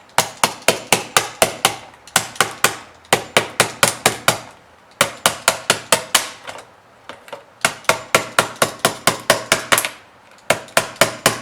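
A hammer tapping a blade along the sealed join of an LED tail light housing to break the factory seal: quick sharp taps, about four or five a second, in runs broken by three short pauses.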